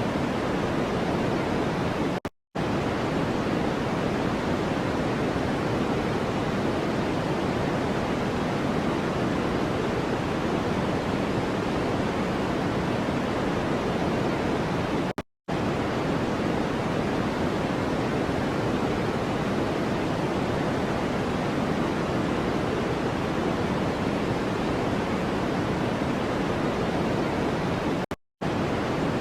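Steady, even rushing noise from a white-noise track, heavier in the low and middle range than in the highs, like pink noise. It drops out to silence for a split second three times, about thirteen seconds apart.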